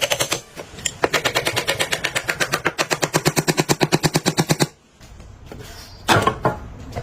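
Rapid, even mechanical hammering, about ten blows a second, running for nearly four seconds and stopping suddenly, after a few shorter bursts. A short burst of noise follows near the end.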